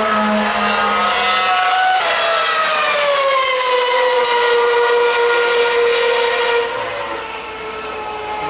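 A 2013 Formula One car's 2.4-litre V8 running at high revs as it passes, its whine dropping in pitch from about two seconds in, then fading a little near the end.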